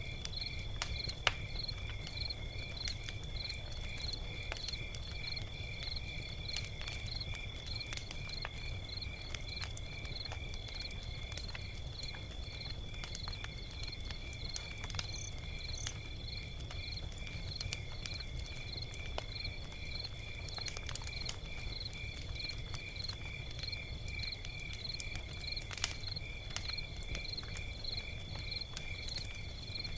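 Log fire crackling, with scattered sharp pops and cracks over a low rumble of burning, one louder crack about a second in. Crickets chirp steadily behind it, a couple of even chirps a second over a constant high trill.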